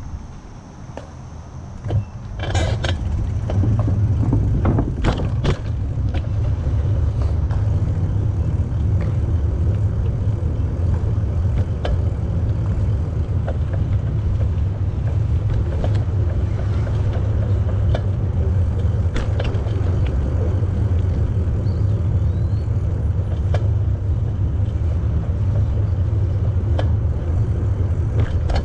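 Wind rumbling on the microphone of a camera riding along on a moving bicycle, rising about two seconds in and then holding steady, with scattered clicks and rattles from the bike, strongest in the first few seconds.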